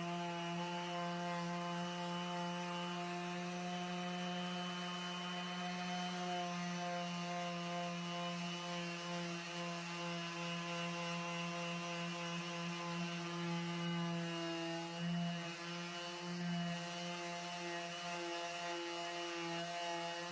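Handheld electric power tool running steadily against boat gelcoat, giving an even motor hum; its pitch wavers briefly about three-quarters of the way through as the load changes.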